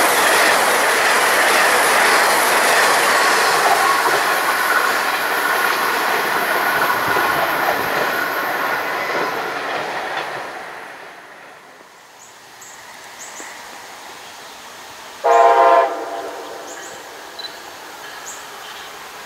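Amtrak passenger train of stainless-steel Amfleet coaches passing at speed, its wheels rolling on the rails and fading away over the first ten seconds or so. About fifteen seconds in, a train horn sounds one short blast from a train approaching in the distance.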